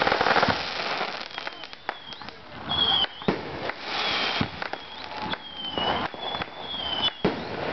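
Consumer fireworks going off one after another: sharp pops and bangs, rockets with short whistles as they fly, and a rushing hiss of sparks at the start and again around the middle.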